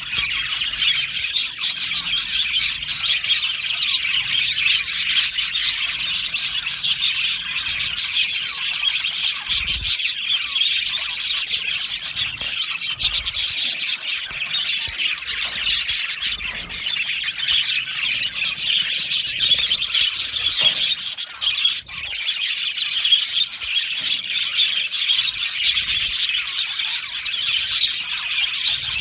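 A flock of budgerigars chattering and chirping together in a dense, continuous warble of overlapping high calls.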